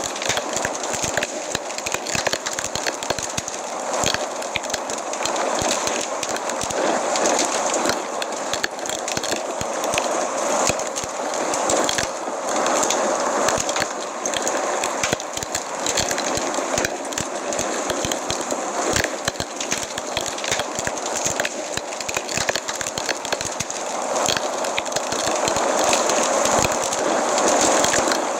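Wood fire in a fireplace crackling steadily, many small snaps over a constant hiss.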